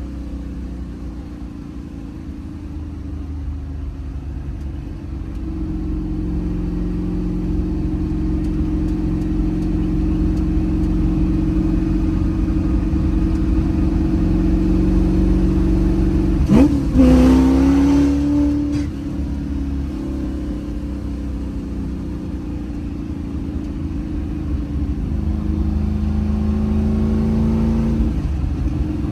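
1965 Mustang fastback's 347 stroker small-block Ford V8 on a drive, a steady engine note that builds slowly. About seventeen seconds in, a brief sharp jump in pitch and loudness, then it falls back and builds again.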